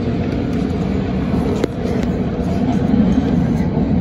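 MTR Tung Chung Line CAF-built electric train running at speed in a tunnel, heard from inside the carriage: a steady low rumble of wheels on rail that grows slightly louder towards the end. One sharp click comes about a second and a half in.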